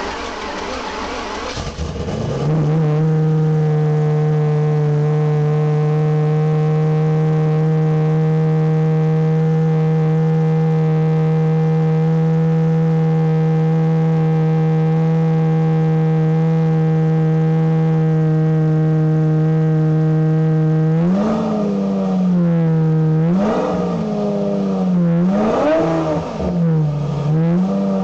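Lamborghini Murciélago V12 running through a stage 2 MS Racing exhaust with its primary and secondary catalytic converters removed, extremely loud. Just after starting it flares, then settles within a couple of seconds into a steady idle; about 21 seconds in it is blipped several times in quick succession, the pitch jumping up and falling back each time.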